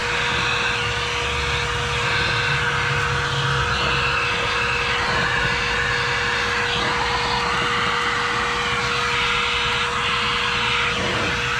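Vacuum running steadily as it sucks debris out of an engine, with a steady hum and an airflow note that shifts in pitch now and then.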